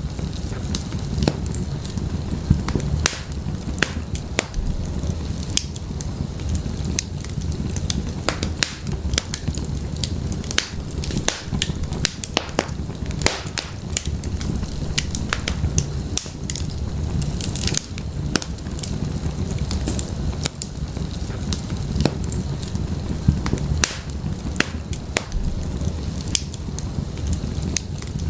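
Wood fire burning in an open fireplace: a steady low rumble of the flames with frequent sharp, irregular crackles and pops from the burning firewood.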